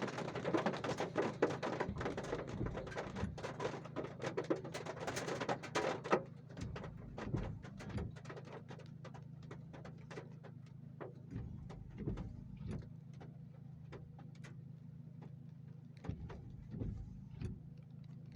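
Heavy rain drumming on the roof of a Suzuki Ertiga GX, heard from inside the cabin: dense for about six seconds, then thinning to scattered drops, over a steady low hum.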